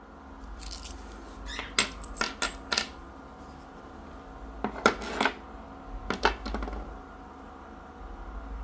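A series of sharp clicks and knocks of small hard objects, in three short clusters, over a steady low hum.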